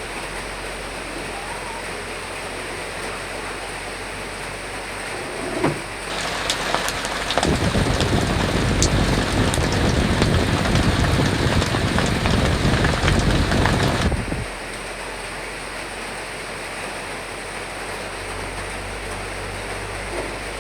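Recorded rain and wind, a steady hiss of rain. About six seconds in it abruptly turns louder, with a low rumble and the tapping of individual drops. Some eight seconds later it drops back to the steady hiss.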